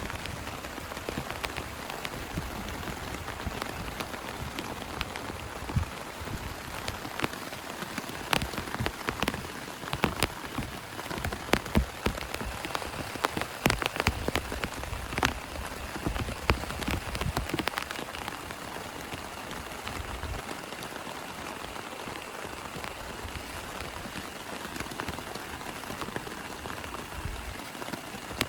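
Heavy rain falling steadily on a plastic tarp, with many sharp individual drop hits that come thickest in the middle stretch. A low thunder rumble dies away at the very start.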